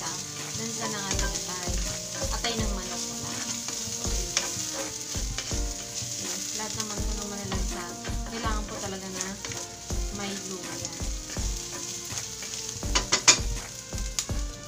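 Minced garlic and ginger sizzling in hot oil in a stainless steel frying pan, stirred with a wooden spatula, with a few sharp clicks about thirteen seconds in. Background music with a steady beat plays underneath.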